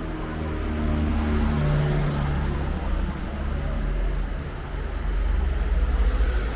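A motor vehicle's engine running close by, a low steady hum that grows louder over the first couple of seconds, with a broad rush of road noise swelling about two seconds in.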